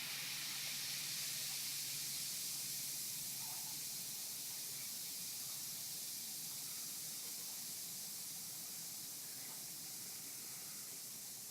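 Baking soda and vinegar fizzing as the foam erupts from a plastic bottle: a steady high hiss that slowly dies away.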